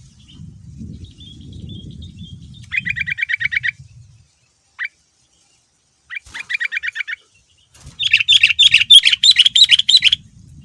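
Sooty-headed bulbul (kutilang) singing: three bursts of rapid repeated notes, about ten a second, with a single short note between them; the last burst, near the end, is the loudest and longest.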